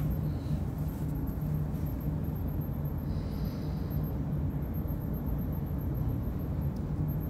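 Steady low hum and rumble of background noise, with a faint high whine above it and no clear individual events.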